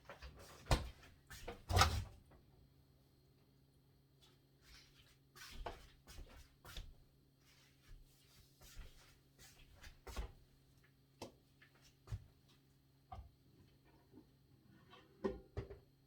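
Kitchen items being handled: scattered knocks, clicks and light clatters as things are put away and set down, the two loudest knocks about a second apart near the start. A faint steady low hum runs underneath.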